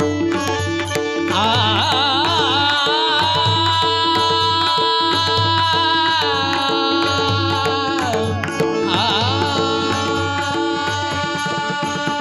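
Indian devotional music in raag Desh with tabla keeping a steady rhythm under a wordless melodic interlude. The melody wavers in quick ornaments about a second and a half in and again near nine seconds, with long held notes between.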